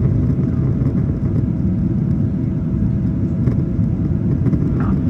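Steady low rumble of a Boeing 777's jet engines and airflow heard inside the passenger cabin, with a faint steady hum above it.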